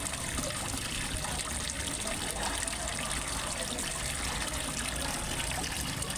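Water trickling and splashing steadily into a fish pond.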